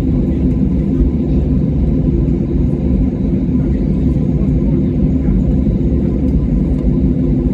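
Steady low rumble of an airliner's engines and cabin heard from inside the passenger cabin, running evenly without rising or falling.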